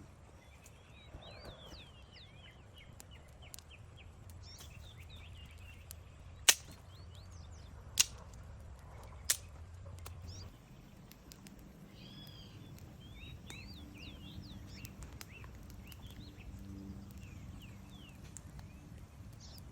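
Outdoor ambience of small wild animals chirping in repeated short calls, over a low steady hum. Three loud sharp cracks come about a second and a half apart near the middle.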